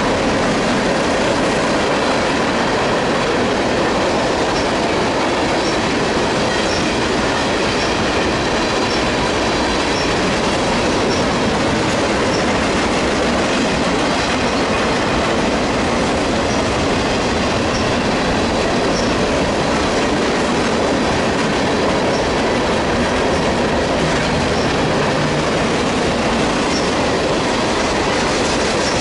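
Freight train's boxcars and tank cars rolling past close by: a steady, loud rumble and rattle of steel wheels on rail, with faint clicks about once a second.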